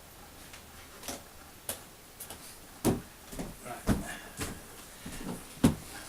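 Irregular knocks and clicks of things being handled, about seven of them, louder in the second half.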